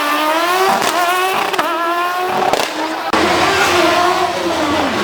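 Rally car engine accelerating hard, its pitch rising and dropping at gear changes about two-thirds of a second and a second and a half in. About three seconds in the sound cuts abruptly to another engine running at steadier revs.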